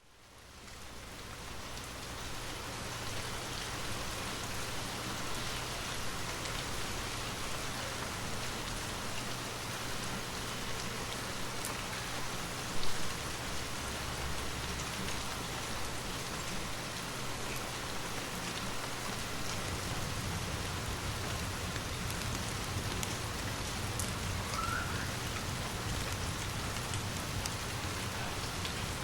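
Steady rain falling, fading in over the first second or so, over a low rumble. A single brief, louder crack comes about halfway through.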